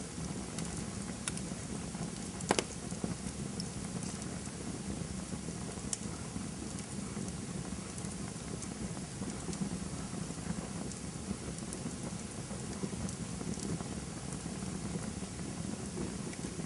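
Campfire burning with a steady low rush and scattered crackles and pops; the loudest pop comes about two and a half seconds in.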